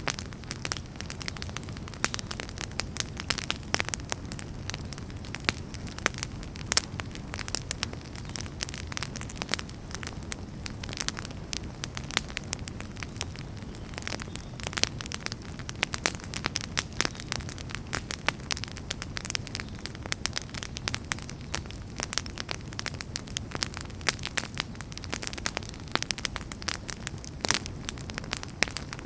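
Wood campfire burning steadily, with a dense run of irregular sharp crackles and pops over a low, even rumble of the flames.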